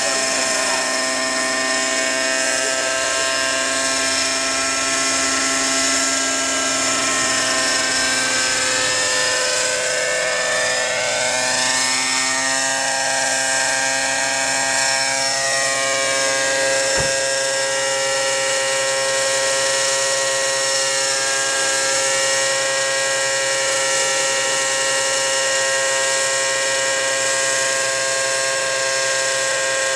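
Nitro-engined Hirobo Shuttle SCEADU radio-controlled helicopter running with a Fantech muffler: a steady high engine-and-rotor whine whose pitch rises and falls for several seconds near the middle. A single sharp click about seventeen seconds in.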